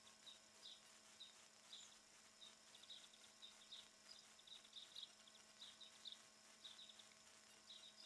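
A small bird chirping over and over: short, high chirps about twice a second at an uneven pace.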